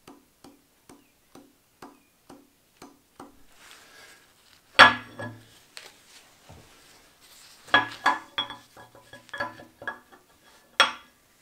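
Metal engine parts clinking and clanking as they are handled and set down, with a loud clatter about five seconds in, a run of clinks a few seconds later and one sharp clink near the end. It opens with slow, even ticks, about two a second.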